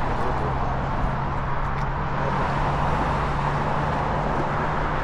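An engine idling steadily with a constant low hum, under an even rush of roadside traffic and wind noise.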